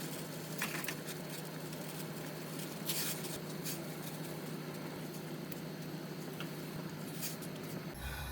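Steady rain pattering, with a few sharper drop ticks standing out here and there.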